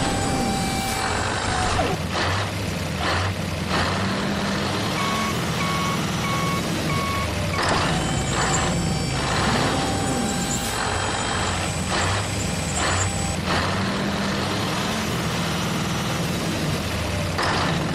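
A vehicle's reversing alarm sounding a run of short, evenly spaced beeps, over steady truck engine noise with scattered knocks.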